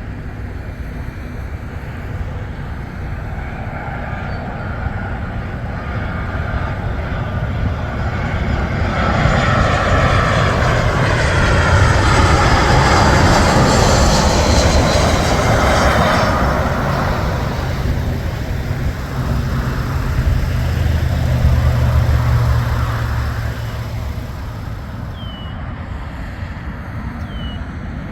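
Airplane engines passing close by: the noise swells over several seconds, peaks with a whine that drops in pitch as the aircraft goes past, then slowly fades.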